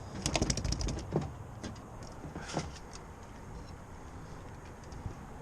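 A freshly caught small snapper thrashing while being handled. It makes a quick run of slaps and taps for about a second, then two single knocks, over steady wind noise.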